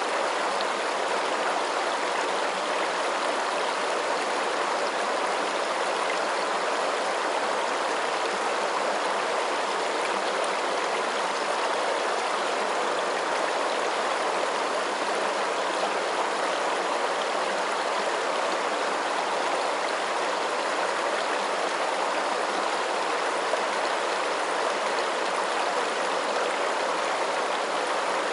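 Steady rushing of flowing water, an even, unchanging hiss with no drips or splashes standing out.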